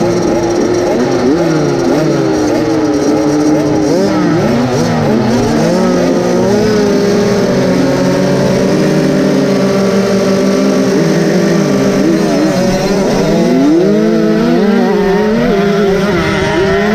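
Several motocross motorcycle engines revving at once, their pitches rising and falling as the bikes accelerate and ease off.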